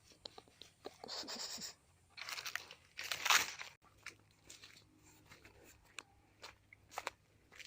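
Crunching noises in three bursts, about a second in, just after two seconds and just after three seconds, the last the loudest, with scattered small clicks between them.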